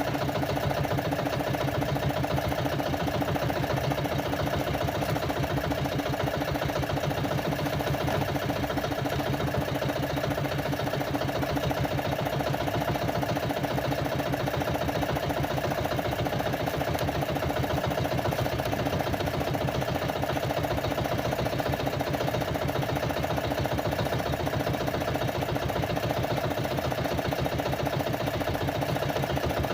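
Small fishing boat's engine running steadily at a constant speed, with a fast, even pulsing and no change in pitch.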